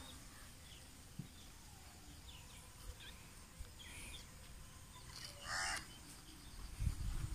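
Quiet outdoor background with one harsh, cawing bird call lasting about half a second, about five seconds in, and faint short chirps before it. Low bumps and rustles near the end.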